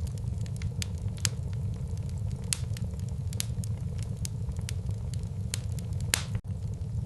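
Wood fire burning in a fireplace: a steady low rumble of the flames with frequent sharp crackles and pops from the burning logs, one louder pop about six seconds in.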